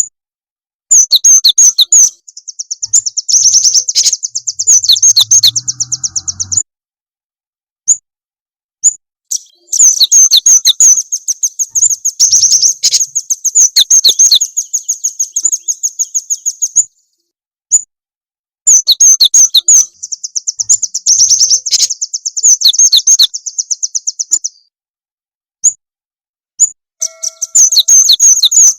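Recorded small-songbird song used as a lure track for cinereous tits (gelatik batu): rapid, high-pitched chirps strung into fast trills. It comes in runs of several seconds, cut by short, completely silent gaps, four runs in all.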